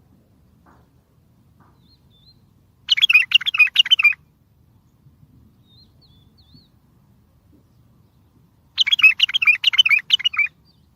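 Bulbul song: two loud phrases of quick, warbling whistled notes, the first about three seconds in and lasting about a second, the second near the end and lasting under two seconds, with a few faint short notes between them.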